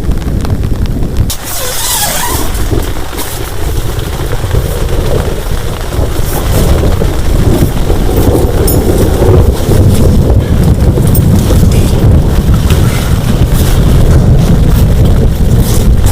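Heavy rain pouring down, with wind buffeting the microphone as a loud, steady low rumble and scattered sharper gusts or splashes.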